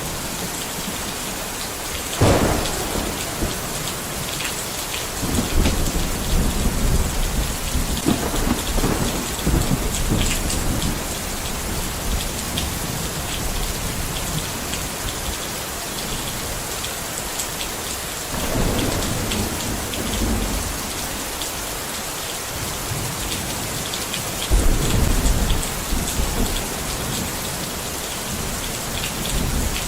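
Steady rain falling, with thunder: a sharp crack about two seconds in followed by rumbling, and more rolls of thunder later on.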